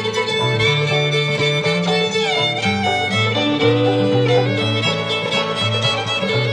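Old-time string band playing an instrumental break, the fiddle carrying the melody over stepping bass notes from the backing strings.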